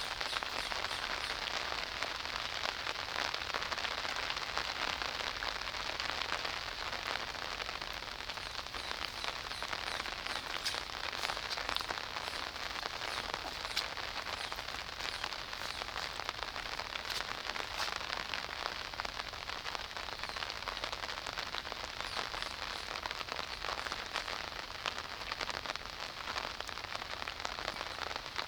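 Steady rain falling, a dense patter of many small drop ticks with an occasional sharper drip.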